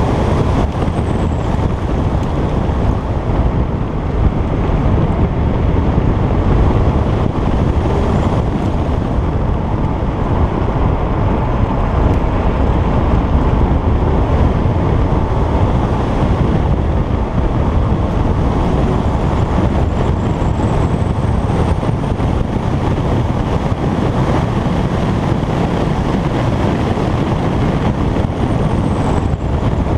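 Alfa Romeo Giulietta Quadrifoglio Verde's stock 1750 turbocharged four-cylinder engine running steadily under way, heard through heavy wind noise on the microphone.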